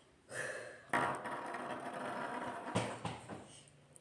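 Rustling handling noise for about two seconds, ending in a single soft knock.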